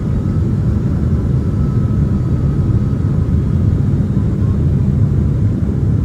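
Steady low rumble inside the cabin of a Boeing 767-300ER airliner: engine and airflow noise, even and unbroken, with a faint thin whine above it.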